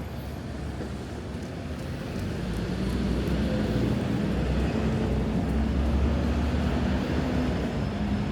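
City street traffic, with a heavy vehicle's engine growing louder about two to three seconds in and then running steadily close by.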